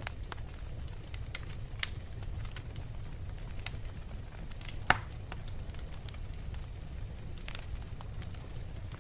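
Wood fire burning in a fireplace: logs crackling with scattered small pops over a steady low rumble of flame, and one sharp, loud pop about five seconds in.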